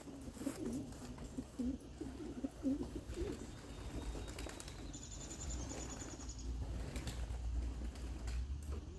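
Young racing pigeons cooing in their loft: a run of low, wavering coos over the first few seconds. About five seconds in, a high, rapid trill sounds for over a second.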